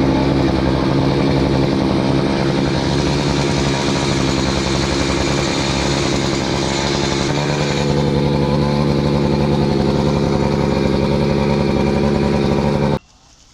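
Chainsaw running at high revs, pitch rising just before and then holding steady with a slight sag in the middle, as when bucking logs; it cuts off suddenly near the end.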